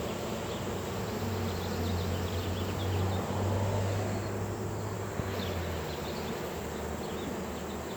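Swarm of honey bees buzzing, a steady hum that swells in the middle and eases off again.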